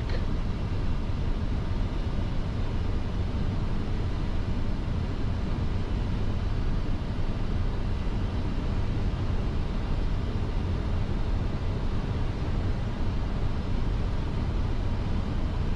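Steady flight-deck noise of a Boeing 747-400 freighter on short final in landing configuration, gear down and flaps 30: an even rumble of airflow and engines, heaviest in the low end.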